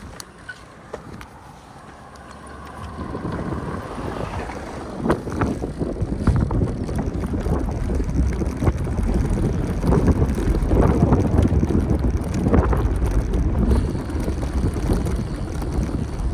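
Wind buffeting the microphone of a camera on a moving bicycle. It builds to a loud low rumble a few seconds in, with a few short knocks on top.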